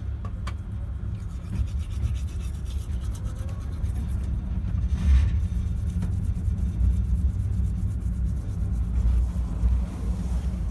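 Sleeper train running, heard from inside the compartment as a steady low rumble, with one louder bump about five seconds in.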